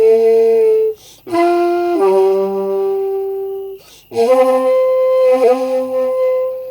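Japanese end-blown bamboo flute of the shakuhachi family playing slow, long held notes, with short breath pauses about a second in and again about four seconds in. The pitch steps down between notes and dips briefly near the end.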